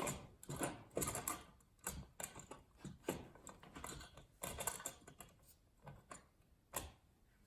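Irregular light clicks and knocks of a recessed electrical floor box and its parts being handled and set down into its hole in the floor.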